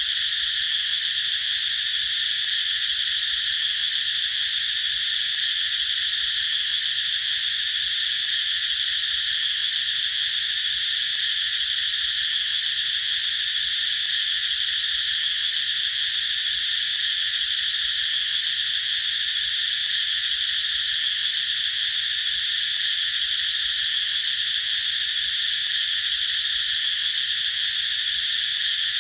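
Cicadas singing in a continuous, steady high-pitched drone, strongest in one shrill band, without pauses.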